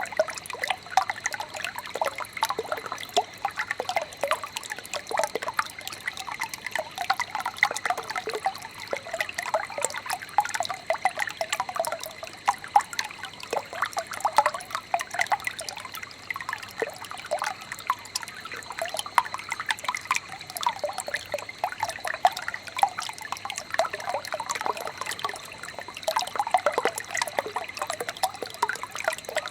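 Small stream babbling and trickling steadily, with many quick little bubbling and dripping sounds.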